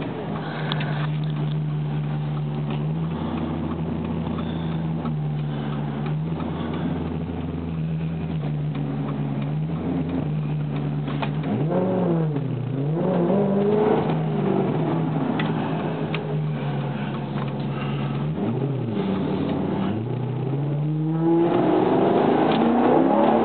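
Alfa Romeo 8C Competizione's V8 engine heard from inside the cabin, running steadily at low revs, then rising and falling in pitch twice around the middle and climbing louder as the car accelerates near the end.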